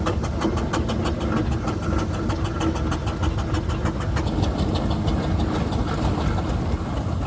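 Steam traction engine running, its exhaust beating rapidly and evenly at about five beats a second over a steady low rumble.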